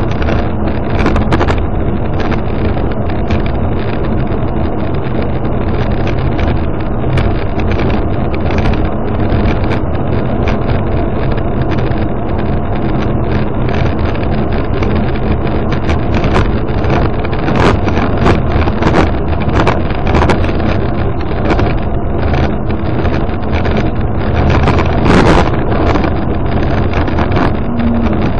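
A car driving at speed, heard from inside the cabin: steady engine, tyre and wind noise, with scattered short knocks and rattles from the road surface.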